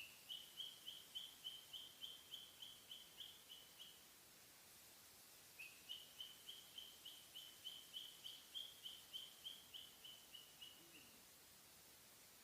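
Cockatiel chirping faintly in two runs of quick, evenly spaced high notes, about four a second, the pitch dropping a little near the end of each run.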